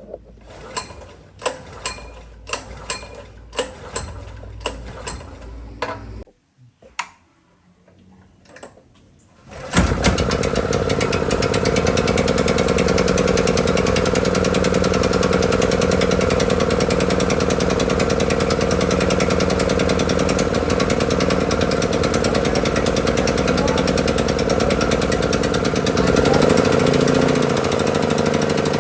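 A run of sharp knocks, about two a second, for the first six seconds. Then, about ten seconds in, a 5.5 kW portable generator's engine starts abruptly and runs steadily, its pitch wavering a little near the end.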